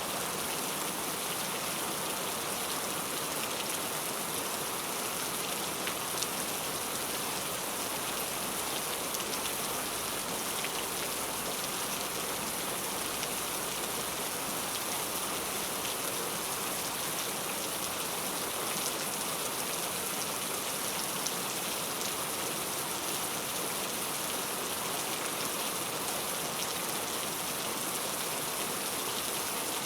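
Heavy, steady rain falling on a surface: an even hiss sprinkled with many small drop ticks.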